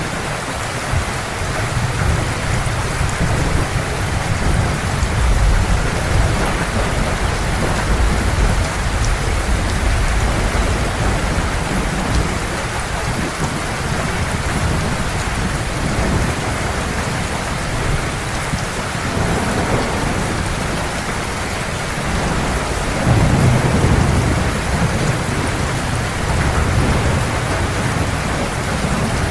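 Heavy rain falling steadily, with the low rumble of distant thunder underneath that swells about three-quarters of the way through.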